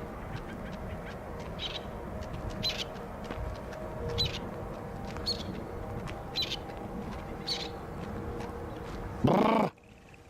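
Grey partridges calling: short high calls repeating about once a second over a steady low hum. Near the end a brief louder sound rising in pitch, then the sound cuts off.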